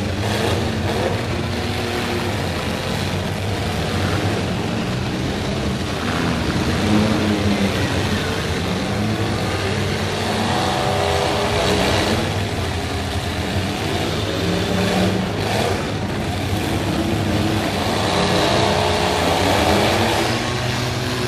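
Demolition derby cars' engines revving hard together, rising and falling in pitch, with bigger climbing revs about halfway through and near the end.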